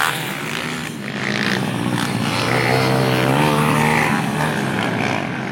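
Pitbike engines buzzing and revving, the pitch rising and falling as the bikes accelerate and back off.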